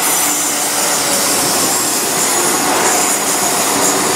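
Class 172 Turbostar diesel multiple unit running past close by: a steady mix of diesel engine and wheel-on-rail noise with a strong high hiss.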